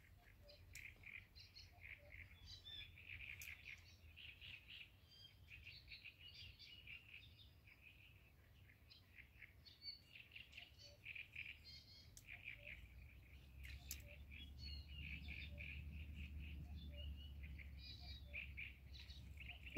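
Faint birdsong: small birds chirping and chattering in quick runs of short notes. A low rumble builds up under it in the second half.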